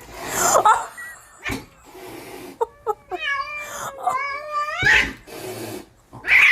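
Cat yowling: a short rising cry at the start, then one long wavering yowl about three seconds in that rises in pitch at its end.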